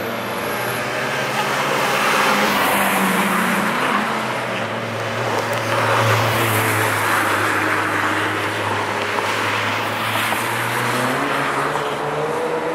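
Cars driving past at speed on a race circuit, their engines running with a steady drone. The sound swells several times as cars go by, and an engine note climbs near the end.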